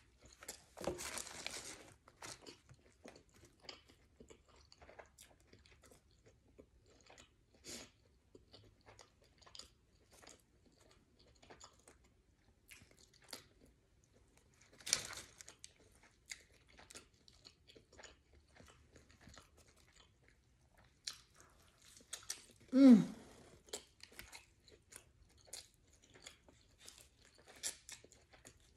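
Close-miked chewing and crunching as a person eats a sub sandwich and crunchy hot fries, with irregular small crunches throughout. Louder bites come about a second in and again about halfway through.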